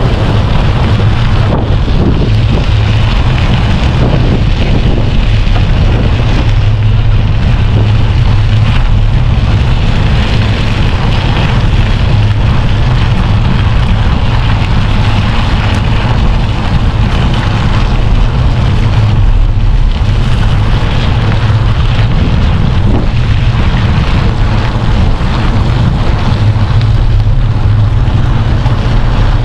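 Wind buffeting the microphone of a moving bicycle, over a steady low rumble of tyres on a snowy road.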